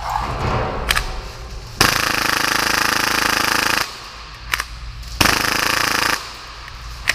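Full-auto Tokyo Marui Hi-Capa gas blowback airsoft pistol, running at about 30 rounds per second, firing two bursts: one about two seconds long starting about two seconds in, then a shorter burst of about a second near the end. A few single clicks come before and between the bursts.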